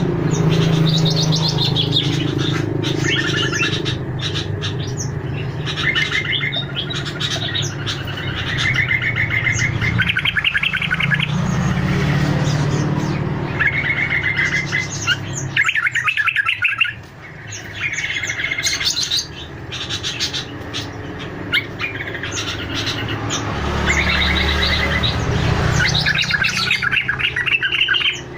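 Busy chorus of fruit-eating songbirds chirping and trilling in rapid, overlapping phrases, played as a lure call to draw wild birds in, over a steady low rumble.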